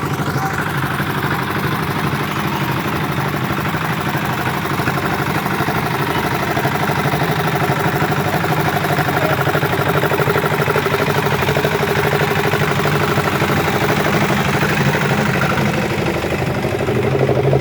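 Isuzu Elf light truck's diesel engine running steadily, a little louder in the middle and again at the very end.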